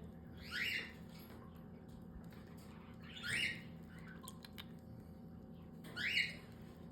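Baby cockatiel chick giving food-begging calls while being hand-fed: three short squawks, each rising in pitch, about every three seconds.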